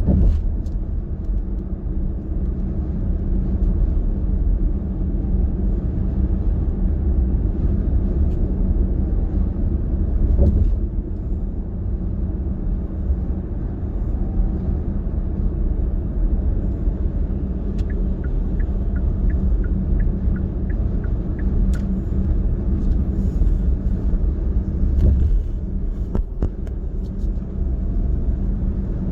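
Steady low rumble of a car driving at road speed: tyre and engine noise. A run of small quick ticks comes a little over two-thirds of the way through.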